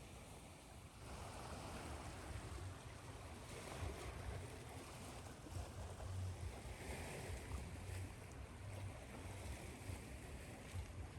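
Ocean waves washing on a shore, with slow swells of low rumble, mixed with a steady hiss of white noise.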